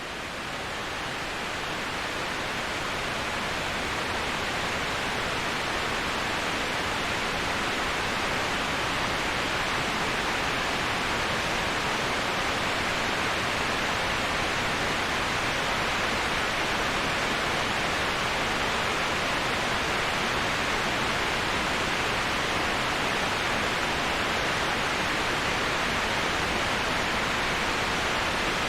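Steady, even rushing of a waterfall, used as continuous white noise, fading in over the first few seconds.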